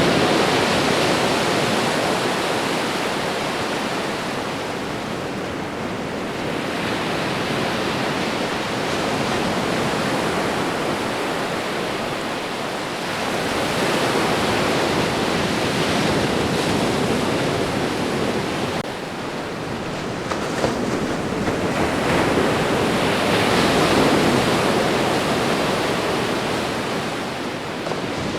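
Ocean waves washing onto the shore: continuous surf noise that swells and eases in slow, uneven surges.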